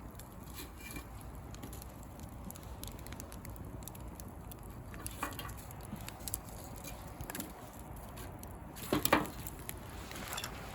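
Bonfire of dry branches crackling, with scattered small clicks and a louder snap about nine seconds in.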